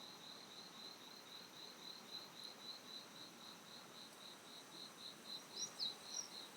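Faint insect chirping: a steady, high pulse repeating about four times a second. A few short bird chirps come in near the end.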